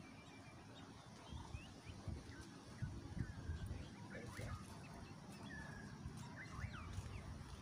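Small birds chirping in the background: scattered short, quick chirps and little whistled glides, some rising and some falling, over a low, uneven rumble.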